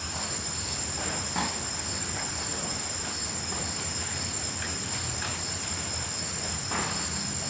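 Crickets trilling: an unbroken, high-pitched chorus, with two faint brief sounds about a second and a half in and near the end.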